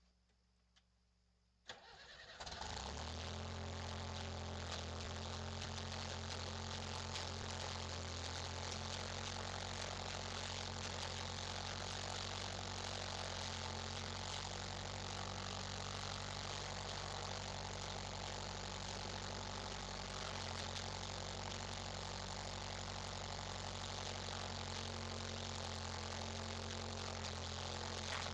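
Skid steer engine cranking and catching about two seconds in, then running steadily.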